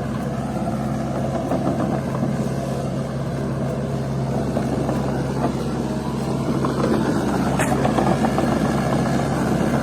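A vehicle engine running steadily, a constant deep hum that holds without breaks.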